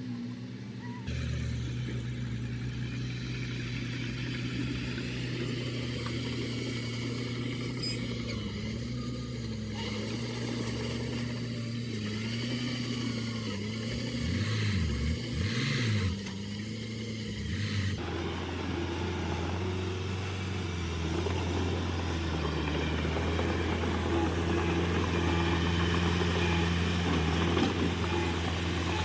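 Diesel engines of heavy earthmoving machinery running steadily. The engine note wobbles in pitch, and it revs up and down a few times about halfway through. The sound changes abruptly about a second in and again about two-thirds of the way through.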